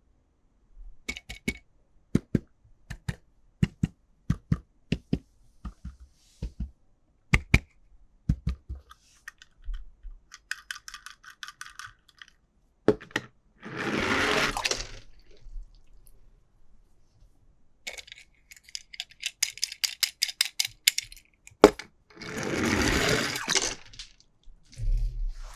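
Plastic toy packaging and small toy cars being handled: a run of light clicks and taps, then a fast rattle followed by a rushing noise lasting over a second. The rattle and the rush come twice.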